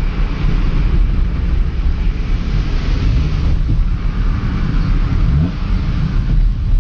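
Car engine running under way with the front of its air filter box removed, giving a deep, steady rumble mixed with road and wind noise; the engine pitch rises briefly about two-thirds of the way through as it speeds up.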